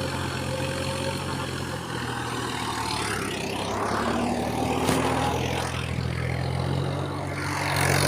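John Deere 5310 D tractor's three-cylinder diesel engine running steadily, with a rising and falling noise over the middle seconds and a single click about five seconds in.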